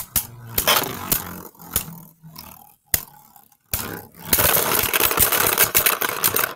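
Beyblade spinning tops clattering in a plastic stadium: a few sharp clacks, then from about four seconds in a dense, loud scraping rattle of the tops grinding and striking each other.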